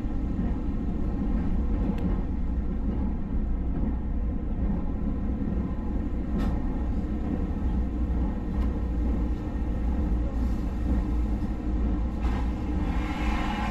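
Passenger train running at speed, heard from inside the carriage: a steady low rumble with a few sharp clicks, and a hiss that builds near the end.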